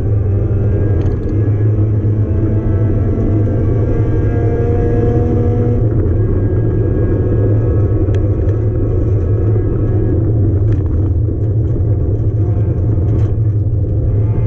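1994 Mazda Miata's engine heard from inside the cabin, running hard at speed. Its pitch climbs slowly and then drops about six seconds in, and there are a few short clicks later on.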